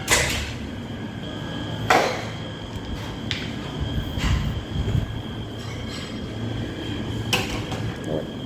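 A few sharp knocks and clatters, one right at the start, one about two seconds in and one near the end, over a steady low hum and a faint high whine.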